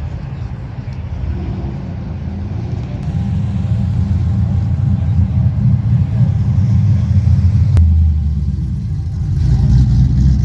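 A car engine's deep rumble that grows louder about three seconds in, eases briefly near the end, then rises again.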